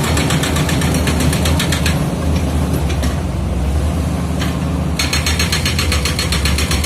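Komatsu D85E-SS bulldozer's diesel engine running steadily, with a rapid, even metallic clatter from its steel tracks that stops for about three seconds midway and then starts again.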